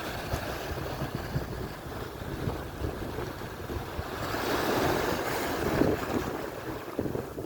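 Atlantic surf: waves washing on the shore in a steady rushing noise, with one wave swelling louder about halfway through. Wind buffets the microphone.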